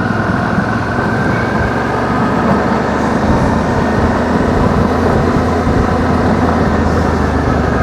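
Suzuki V-Strom adventure motorcycle's engine running steadily while riding, its note rising slightly over the first couple of seconds and then holding.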